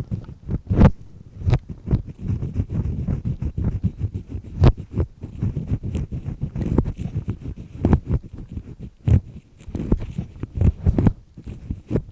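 An earpick scraping and grinding inside an ear canal, heard very close: a run of irregular rough strokes with a few sharper knocks.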